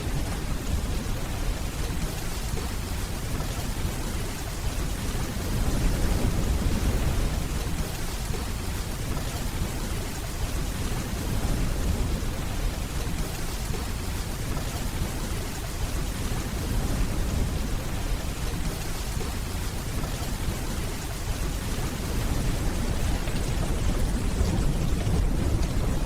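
Steady heavy rainfall with deep, low rolling thunder in the distance, the rumble swelling a few times, about six seconds in, around seventeen seconds and near the end.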